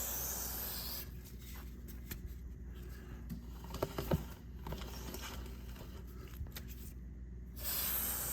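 Aerosol chain lube hissing out in a short spray burst onto a motorcycle chain, then again near the end, with a few faint clicks of the chain being turned in between.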